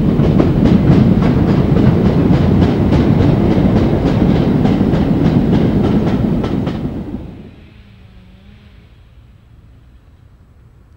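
Wagons of a goods train rolling past close by, wheels clicking in a steady rhythm over the rail joints. The train noise drops away abruptly about seven seconds in, leaving only faint background sound.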